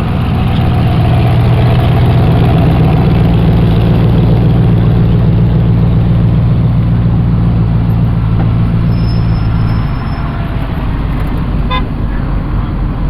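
A vehicle engine running at a steady speed, a low steady drone over road or exhaust noise, which falls away about ten seconds in.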